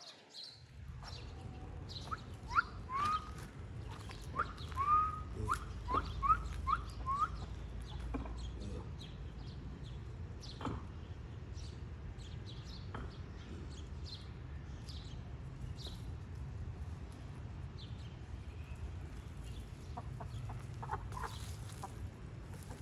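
Bird calls: a quick run of short, rising calls, several a second, from about two to seven seconds in, and a few more near the end, over a steady low rumble.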